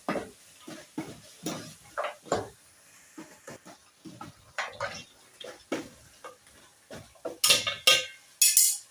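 Cooking pot and metal utensils knocking and clattering, with a run of louder, sharper clanks near the end.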